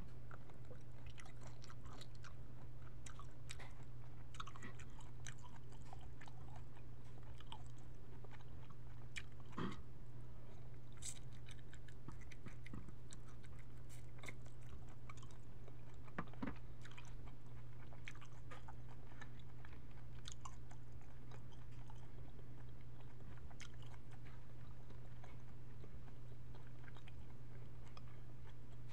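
A person biting and chewing cooked jumbo shrimp close to the microphone, with many small wet mouth clicks and smacks scattered through it. A steady low hum runs underneath.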